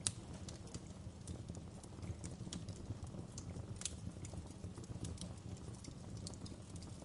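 Wood fire crackling in a fireplace: irregular sharp pops and snaps over a steady low rumble of the flames, with a louder pop just after the start and another about four seconds in.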